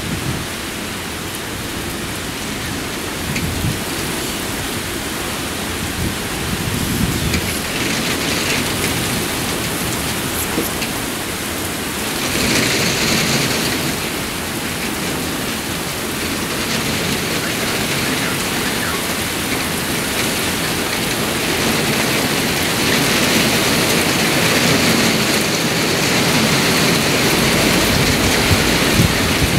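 Heavy rain pouring down in gusty squall wind during a thunderstorm, with irregular low rumbling underneath in the first few seconds. The rain hiss swells about twelve seconds in and grows louder again toward the end as the downpour intensifies.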